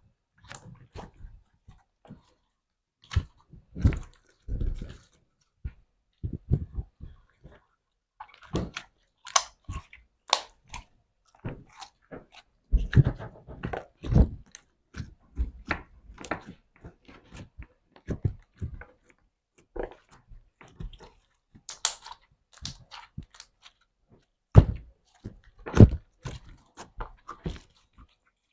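Slime being squeezed and played with by hand: irregular squishy pops and crackles with occasional low thuds.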